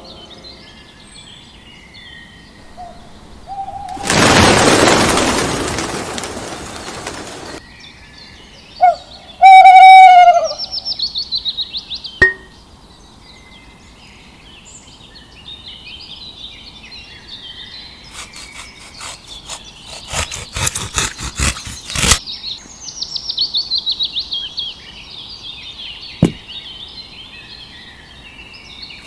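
Birds chirping throughout, broken by a loud rushing noise lasting about three seconds, a short, very loud pitched cry near the ten-second mark, and a run of rapid clicks and rasps around twenty seconds in.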